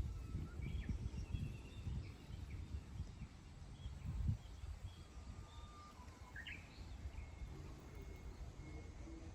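Wild birds chirping and calling: short chirps and brief gliding whistles, with one note held near the end. A low rumble runs underneath, strongest in the first half.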